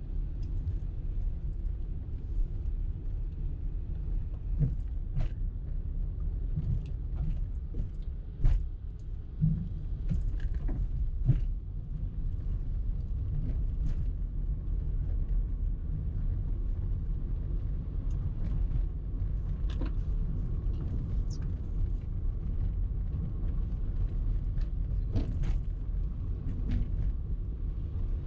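Car driving: a steady low road rumble with scattered light clicks and knocks, the loudest about eight and a half seconds in.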